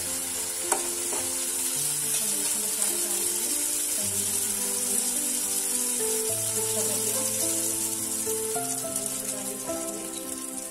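Tomato and onion masala sizzling steadily in hot ghee in a steel kadai, fried down until the ghee has separated, with one spatula tap near the start. A gentle instrumental melody plays underneath.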